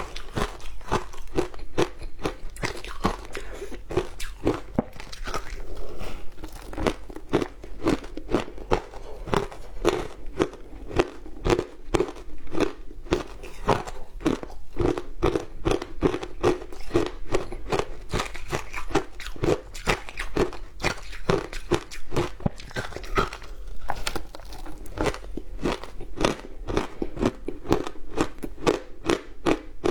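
Frozen matcha ice being bitten and chewed close to the microphone: a dense, unbroken run of rapid crunches and cracks.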